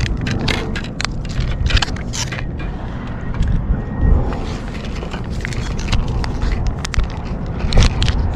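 Strong wind buffeting the microphone in a heavy low rumble, with scattered short clicks and scrapes over it.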